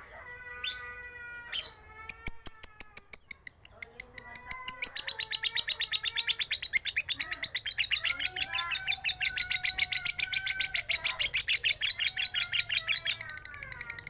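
Lovebird singing a long, fast chattering trill of sharp high chirps, about nine a second, starting about two seconds in and stopping near the end, with softer warbling notes underneath.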